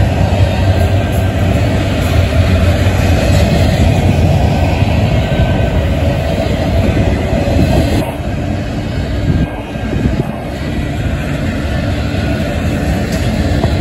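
Double-stack intermodal well cars of a freight train passing at speed: steady noise of steel wheels on rail, easing briefly a little past halfway.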